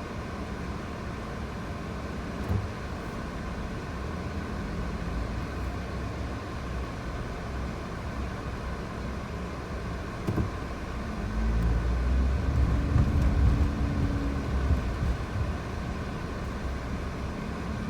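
Steady car engine and cabin hum from a Nissan Moco, with a sharp knock about ten seconds in. It swells louder for a few seconds just after the knock, then settles back.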